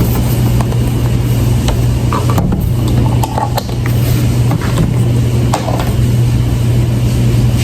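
Steady low machine hum with scattered clicks and light knocks over it.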